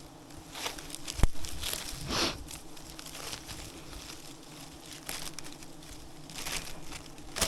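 Rustling and crinkling handling noises with scattered clicks, and one sharp knock about a second in.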